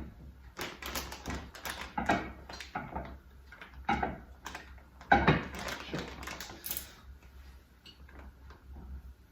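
Irregular clicks, taps and scrapes of a utensil and bowl, with plastic rustling, as funnel cake batter is poured into a zip-top plastic bag.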